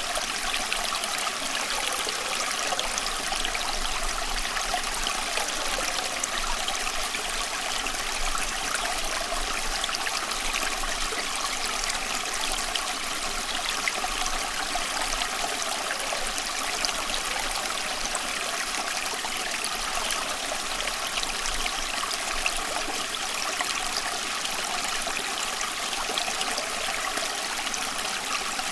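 A small stream flowing, a steady babbling rush of water with no breaks or separate splashes.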